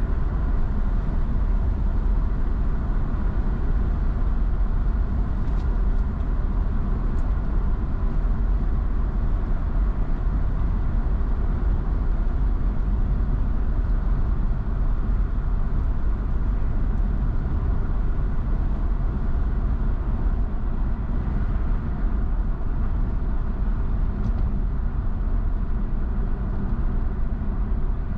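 A car driving at speed: a steady low rumble of tyres and engine.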